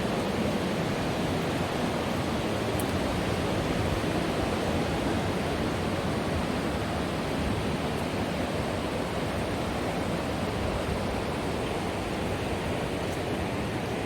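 Rushing water of a river or waterfall: a steady, even rush with no breaks.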